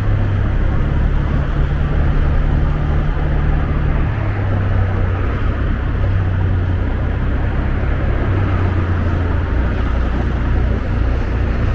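Rented motor scooter's engine running steadily while riding, under a steady rush of wind and road noise; the engine note drops about four seconds in.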